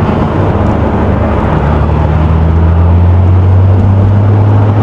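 Nissan Skyline GTR's twin-turbo RB26 straight-six pulling away under light throttle. The engine note steps up in pitch and gets louder about a second and a half in.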